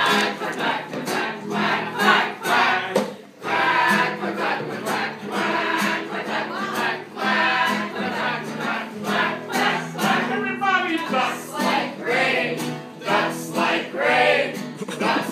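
Music with a group of voices singing over a steady beat.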